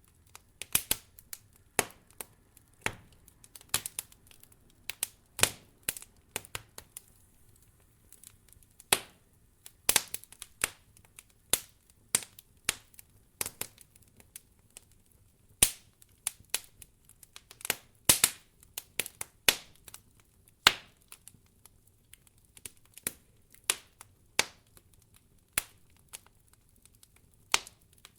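Wood fire crackling in a fireplace: irregular sharp pops and snaps, some in quick clusters, with short quiet gaps between them.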